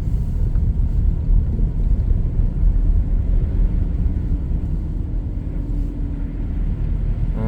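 Steady low rumble of a car driving, engine and tyre noise heard from inside the cabin, with a faint steady hum joining about halfway through.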